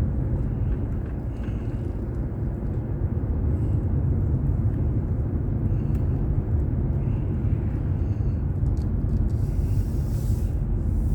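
Steady low rumble of a car's road and engine noise while driving, as picked up by a dashboard recorder inside the cabin.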